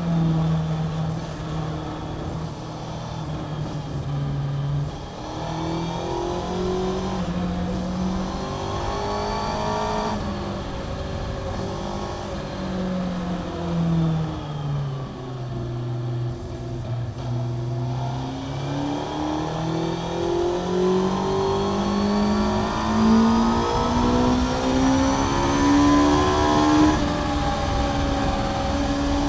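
Honda CBR600F PC41 inline-four engine with a Mivv aftermarket exhaust, heard from the rider's seat on a race track. The revs drop in steps through the middle, the engine braking and downshifting for a slow corner. From about two-thirds of the way in it pulls hard, pitch rising steadily to a high-revving scream with brief steps at the upshifts.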